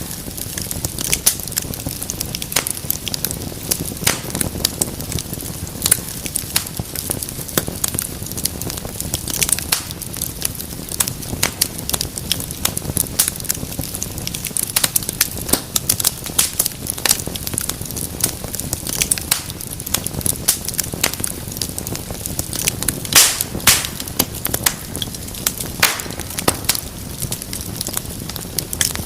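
Wood fire burning in a fireplace: constant irregular crackling and popping over a low steady rumble of flame, with a few louder pops about 23 seconds in.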